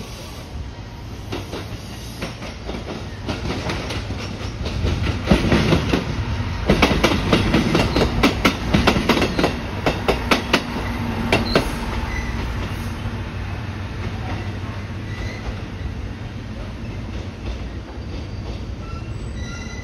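JR East KiHa E130-series two-car diesel railcar passing close by, its wheels clattering over rail joints and points in quick irregular clicks over a steady low rumble. The clatter builds and is loudest from about five to twelve seconds in, then gives way to a quieter, steady running sound as the train moves away.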